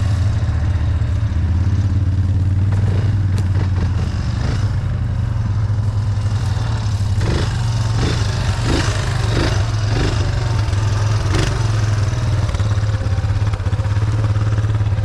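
ATV engine running steadily on a mud trail ride, with a few knocks and clatters about halfway through.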